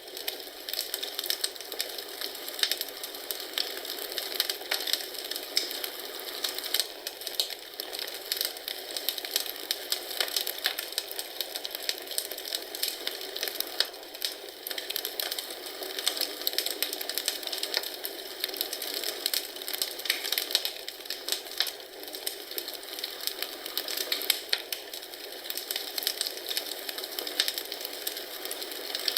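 Wood fire crackling in a fireplace: a steady run of quick pops and snaps over an even hiss.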